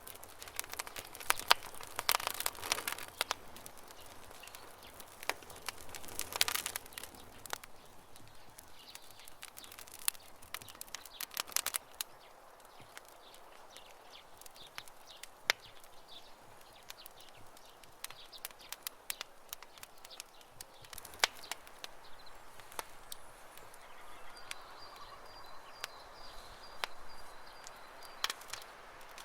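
Campfire crackling and popping: irregular sharp snaps from burning wood, in thicker clusters a couple of times, over a soft hiss. A bird trills briefly near the end.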